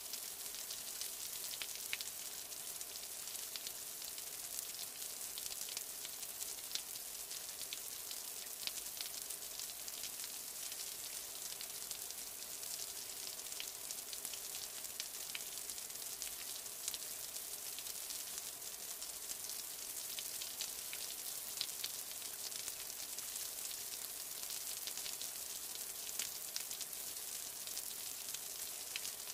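Chicken pieces frying in a wok, sizzling steadily with a continuous hiss and many small crackles.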